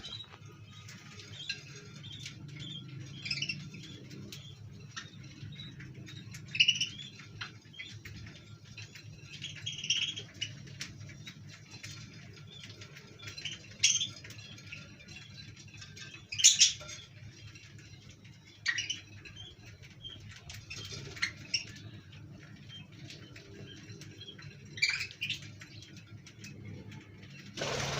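Budgies giving short, high chirps here and there, a few louder than the rest, over a steady low hum.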